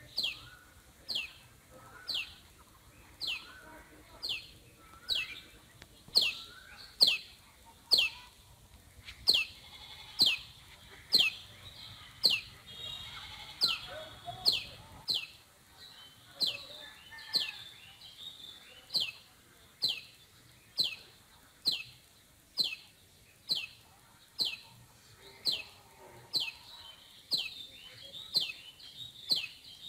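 A bird calling over and over, a short high note sliding downward, repeated steadily about four times every three seconds.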